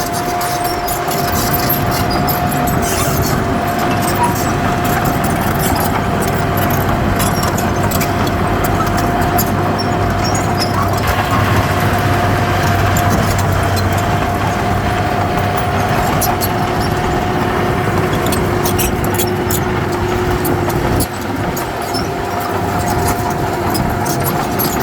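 Heavy diesel earthmoving machinery running steadily, with a steady high whine over the engine.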